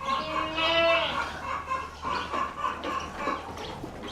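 A farm animal gives one drawn-out call of about a second, a little after the start, followed by softer scattered animal and movement sounds.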